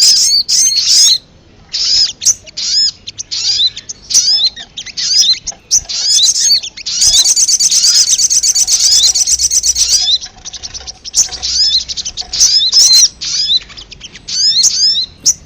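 Sogok ontong (sogon) birds calling noisily in a lure recording: quick chirps repeated in clusters, breaking into a rapid, continuous chattering trill for about three seconds in the middle.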